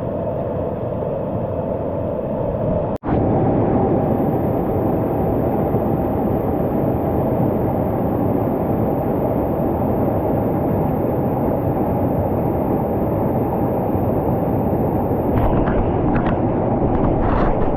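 River rapids rushing in a loud, steady roar, breaking off for an instant about three seconds in.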